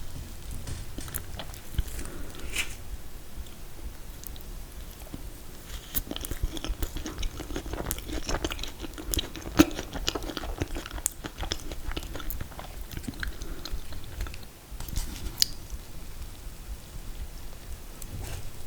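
A person chewing and biting mouthfuls of confetti-cake and mint chocolate chip ice cream cake, close to the microphone, with many small mouth clicks and smacks throughout.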